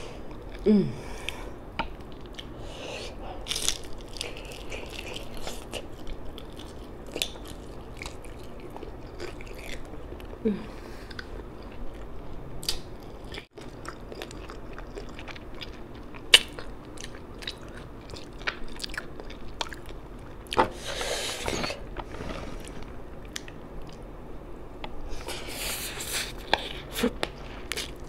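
Close-up eating sounds of a person chewing fish and rice eaten by hand: wet chewing and lip smacks with many short clicks and small crunches, and two longer noisy stretches in the second half.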